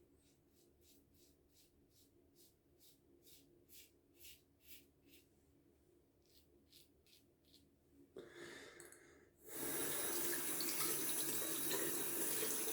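Karve CB safety razor scraping through lathered stubble in faint short strokes, about two a second. About nine and a half seconds in, a tap is turned on and runs steadily into the sink, the loudest sound.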